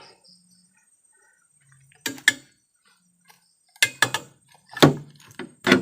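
An irregular series of sharp knocks and thuds, starting about two seconds in and coming several times over the following few seconds.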